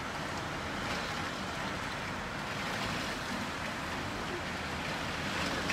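Heavy monsoon rain with gusting wind, a steady rushing noise, heard from inside a room through a window with wind-driven rain streaming on the glass.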